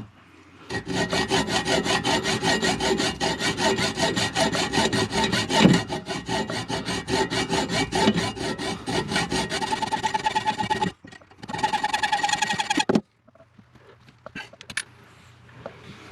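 Hacksaw cutting down an overlong toilet closet bolt, with quick, even back-and-forth strokes for about ten seconds. After a short break it saws again for about two seconds and stops suddenly.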